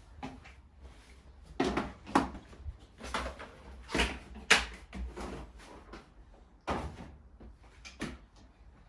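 Irregular knocks and clatters of objects being handled, moved and set down, about eight in all, the sharpest about four and a half seconds in.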